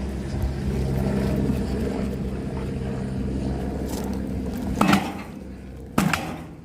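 A steady engine-like hum, then two sharp strikes about a second apart near the end: a homemade spring-loaded axe splitting firewood.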